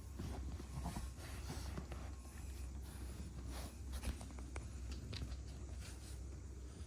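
Scattered light scratching and rustling noises over a low steady hum.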